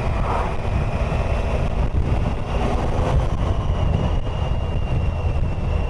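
Steady rumble of a motorcycle on the move, with wind buffeting the microphone.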